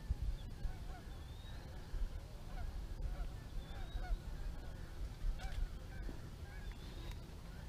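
Distant birds calling, short scattered honks like geese, over a low rumble.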